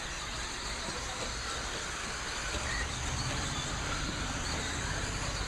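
Radio-controlled stock trucks racing around the track, giving a steady hiss of motors and tyres. A low rumble comes in about halfway.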